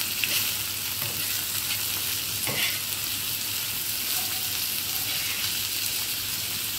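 Chopped onions and tomatoes sizzling steadily in oil on a flat tawa griddle while the tomatoes cook down, with a spatula scraping and stirring through them a few times.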